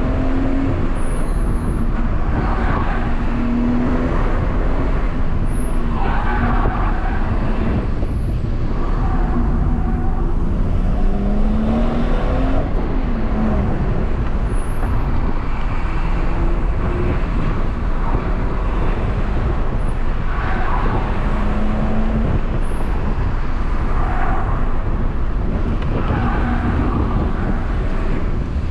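BMW M140i's turbocharged 3.0-litre inline-six heard from inside the cabin, pulling and easing off on a twisting road, its pitch rising and falling with the revs, over steady road and tyre noise.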